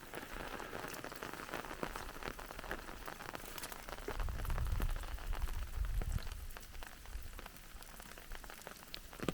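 Light rain falling, a steady patter of many small drops, with a low rumble between about four and seven seconds in.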